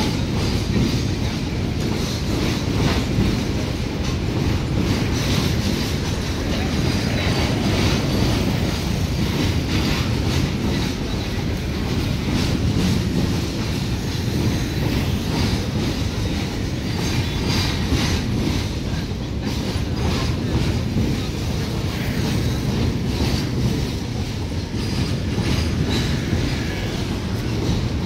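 Empty BOBRYN bottom-discharge hopper wagons of a freight train rolling past, a steady rumble with the steel wheels clicking and clattering over the rail joints.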